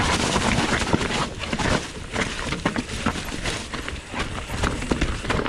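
A 2019 Commencal Meta TR 29 trail bike rattling down a rough, rocky descent: tyres knocking over rocks and the bike clattering in quick, irregular hits over a steady rush of noise.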